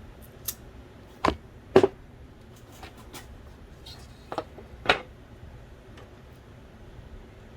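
Short clicks and knocks of small parts being handled and set down while an Original Xbox Philips DVD drive is taken apart: two louder knocks in the first two seconds and a pair more about halfway through.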